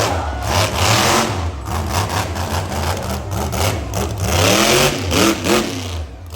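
Monster truck engine revving hard, the revs climbing and dropping again several times over a loud low rumble, easing off near the end.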